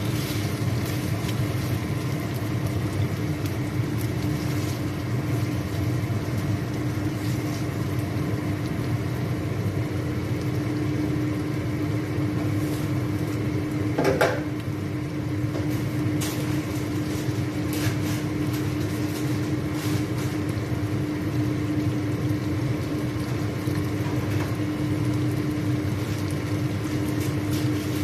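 Chicken pieces frying in oil in a pan, with a faint sizzle and scattered small pops over a steady low hum that carries a constant tone. A single sharper knock comes about halfway through.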